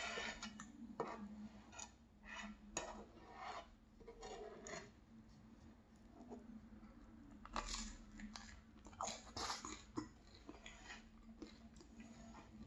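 Faint chewing and crunching of crusty baguette, with scattered soft scrapes and taps as a piece of bread is wiped through tomato sauce in a nonstick frying pan.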